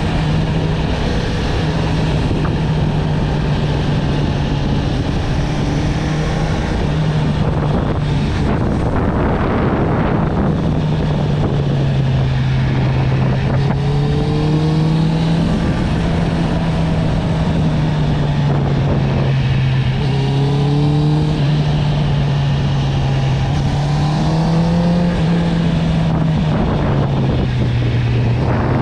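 Honda CB650R's inline-four engine through an Akrapovic exhaust, running steadily at cruising revs, its note drifting down and back up with the throttle and briefly rising a few times, over a steady rush of wind.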